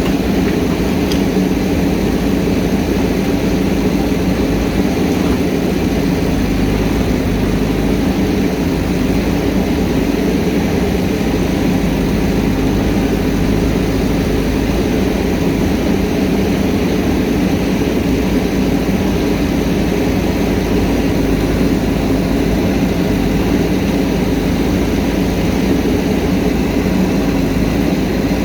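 JCB backhoe loader's diesel engine running steadily, with no rise or fall in pitch.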